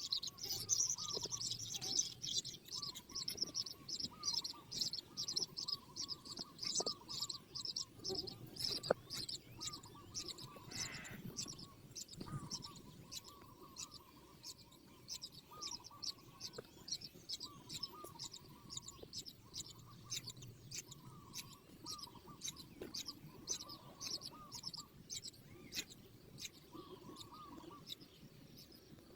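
Small birds chirping: a fast run of short, high chirps, about four a second, loudest at the start and fading, over a slower repeated lower call.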